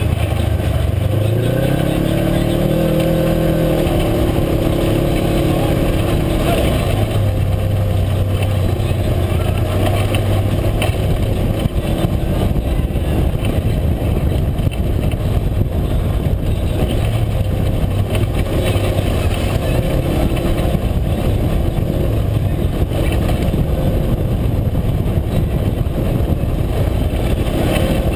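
UTV engine running under way on a trail: it revs up over the first few seconds, then holds a steady drone for the rest of the ride, over constant driving noise.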